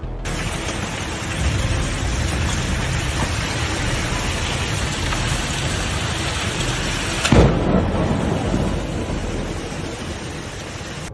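Heavy rain pouring down steadily during a thunderstorm, with a sharp, close thunderclap about seven seconds in that rumbles away afterward.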